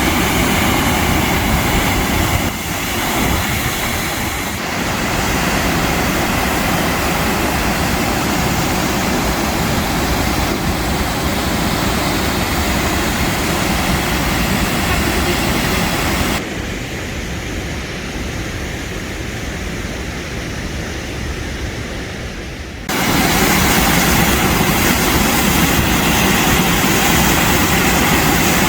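Loud, steady roar of rushing water from the Sheep River Falls. About sixteen seconds in it turns quieter and duller for some six seconds, then comes back at full strength.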